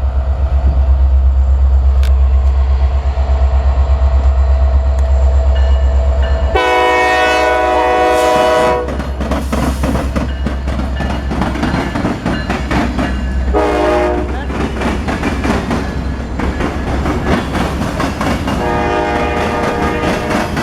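Norfolk Southern diesel freight train passing close: a heavy throbbing locomotive engine rumble gives way about six seconds in to the train's horn, a chord of several tones, held for about two seconds. Then the cars roll by with wheel clatter on the rails, broken by a short horn blast in the middle and another horn sounding near the end.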